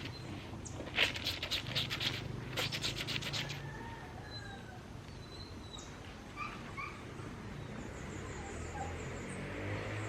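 Laundry scrubbed by hand in a washtub: two quick runs of rapid rubbing strokes in the first few seconds. Birds chirp faintly after that.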